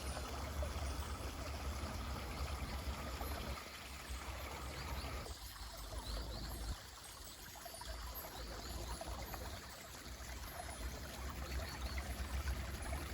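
Mountain stream running, a steady rushing babble of water, with a few faint, short, high bird chirps about halfway through.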